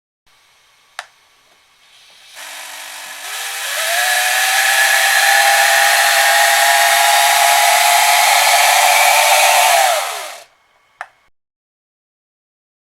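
Small paper model radial engine spinning up with a rising whine over a loud rushing hiss, running steadily for about six seconds, then winding down with a falling whine and stopping. A single click comes before it starts and another just after it stops.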